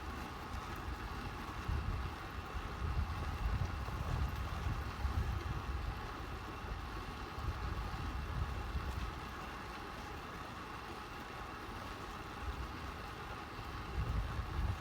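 Wind buffeting the microphone in uneven gusts over a steady hum of road-bike tyres rolling on tarmac.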